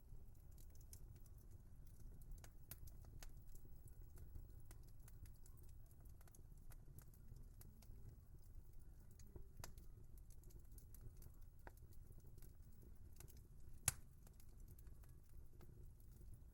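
Wood fire crackling: scattered small snaps and ticks over a low, steady rumble of the flames, with one sharper, louder pop near the end.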